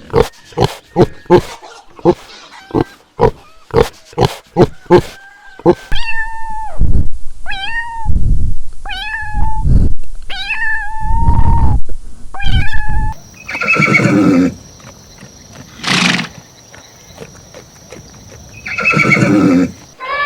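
A series of animal calls from several animals in turn: first a fast run of short, clipped calls, about two a second, then louder pitched calls every second or so, and near the end a few longer, rough calls.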